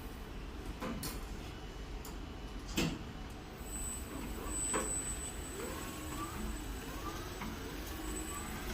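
A few sharp knocks over a steady low rumble, with a thin high steady whine coming in about three and a half seconds in.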